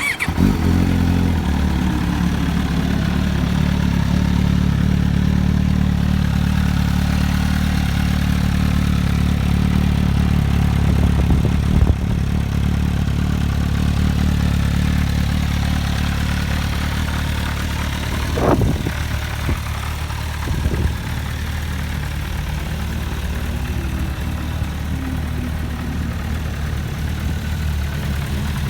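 MV Agusta F4 R's four-cylinder engine starts up and settles into a steady idle. It is blipped twice in quick succession about two-thirds of the way through, each rev rising and dropping straight back to idle.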